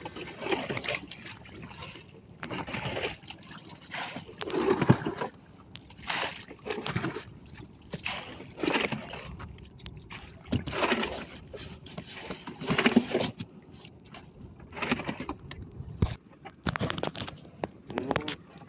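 Water splashing and sloshing at a small fishing boat, in repeated splashes about every one to two seconds.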